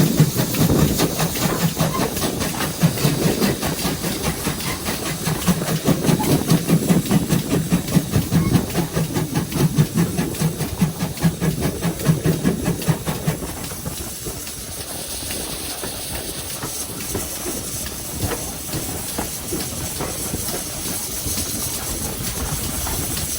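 Steam locomotive running, GWR 57xx-class pannier tank 7714: a rapid, pulsing rumble with steam hiss that dies down about 14 seconds in to a quieter, steady hiss as the engine eases.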